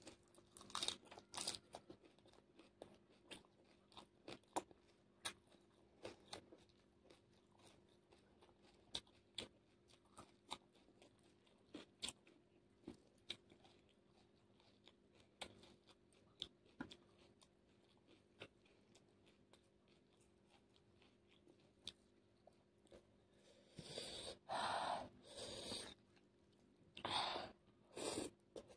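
Close-miked eating: a person chewing and crunching food, with sharp crisp crunches every second or so, then louder, denser spells of chewing in the last five seconds.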